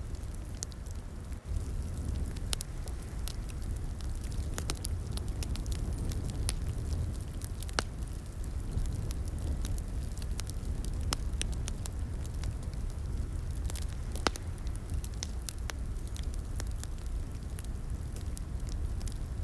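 Wood fire crackling in a fireplace: a steady low rumble of flames with frequent sharp pops and snaps at irregular intervals, one louder pop at about 14 seconds.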